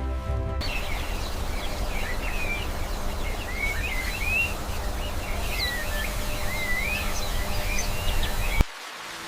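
Small birds chirping and warbling in short rising and falling phrases over a steady hiss of outdoor ambience. The sound cuts off abruptly near the end, and soft music takes over.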